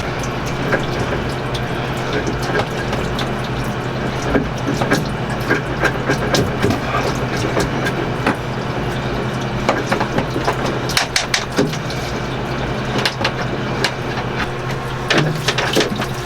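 Seawater running from an opened air-conditioner through-hull fitting as barnacles are cleared from it, with scattered knocks and clicks of hands and tools on the fitting and hose. A steady low hum runs underneath.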